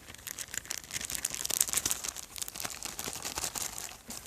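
Small plastic bag crinkling and crackling as it is handled and squeezed, with dense irregular crackles that are thickest in the middle.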